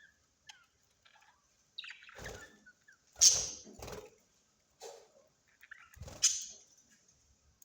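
Parrots giving a series of short, harsh squawks, the two loudest about three and six seconds in, with softer chirps between them.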